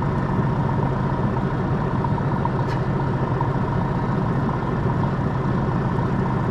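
Piper Comanche 250's six-cylinder Lycoming engine running steadily, heard from inside the cabin as an even, unchanging drone with a faint steady whine above it.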